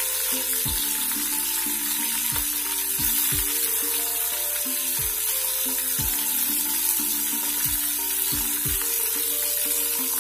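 Chopped vegetables sizzling steadily in hot oil in a steel pot over a high flame, with background music playing under it.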